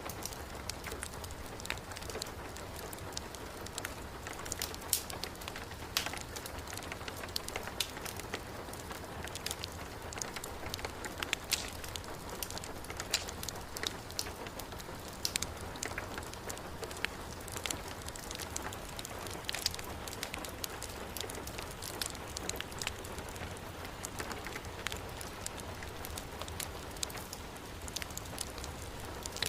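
Steady heavy rain mixed with a crackling wood fire, with scattered sharp pops and crackles over the constant wash of rain.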